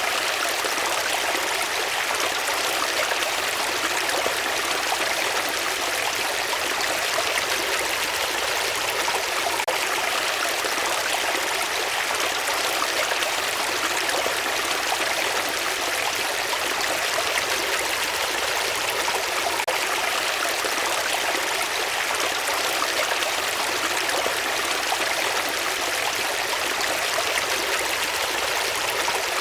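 Running water rushing steadily without a break.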